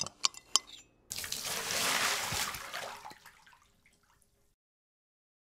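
A few light clicks as a toothbrush is taken out of its cup, then a tap running for about three seconds and fading out.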